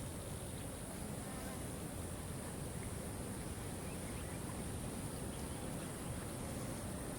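Steady rush of a waterfall, with a constant high hiss above it and a few faint short chirps.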